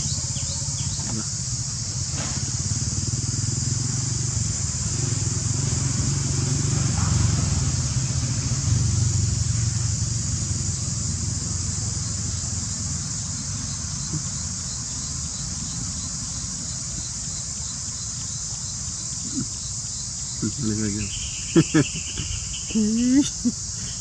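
Steady high-pitched chirring of insects, under a low rumble that swells over the first half and then fades. Short bits of voices come in near the end.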